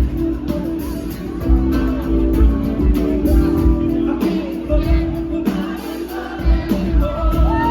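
Live band playing a groove with a steady bass and kick-drum beat, sustained keyboard chords and singing, heard as a crowd-side recording of a concert.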